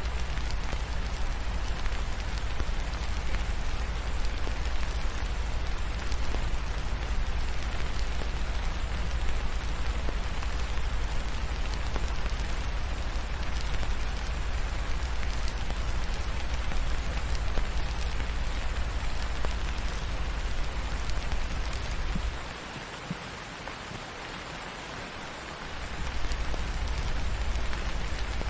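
Steady rain falling, with a low rumble underneath that drops out for a few seconds near the end.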